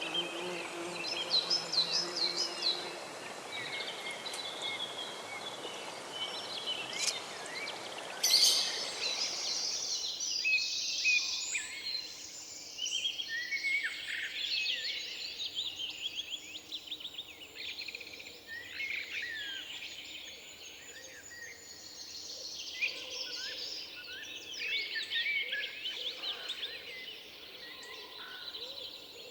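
Forest ambience: many songbirds singing and chirping, over a steady rustle of wind in the treetops that stops about ten seconds in, leaving the birdsong over a quieter background.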